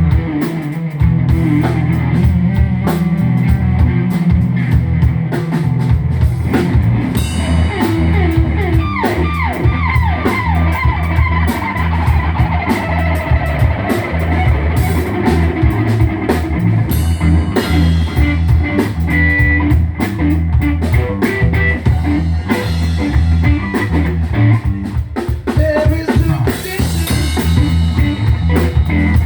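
Live rock band playing an instrumental passage: drum kit, bass and electric guitar, with a guitar line sliding down in pitch about nine seconds in.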